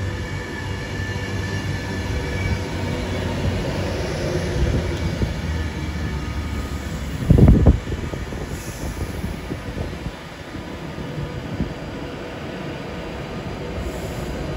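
A passing train's steady rumble, with thin high squealing tones held over it for the first few seconds. There is one brief loud thump about halfway through.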